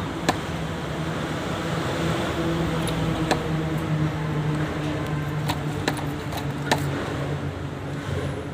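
A motor running with a steady low drone, broken by a few sharp clicks.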